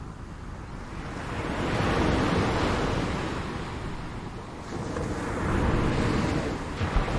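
Ocean waves breaking on a shore: the surf swells to a peak about two seconds in, falls back, then builds again, with a second wave breaking near the end.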